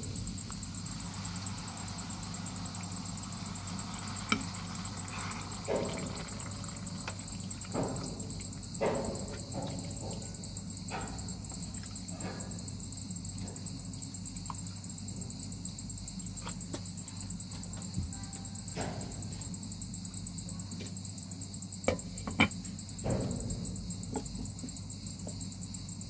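Crickets chirring steadily in a high, fast pulsing drone, with a few scattered knocks and clinks now and then, the sharpest near the end.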